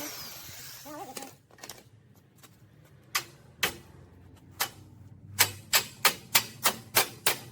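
Light hammer taps on metal: a few spaced strikes, then from about five seconds in a steady run of about three taps a second.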